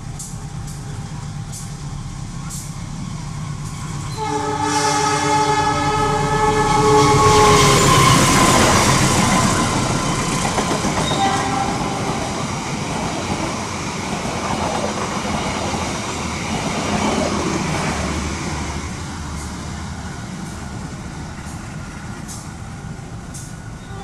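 A train sounds its multi-tone horn for about three seconds, then passes close by, loudest just after the horn, its rumble and wheel clatter on the rails fading away over the next ten seconds.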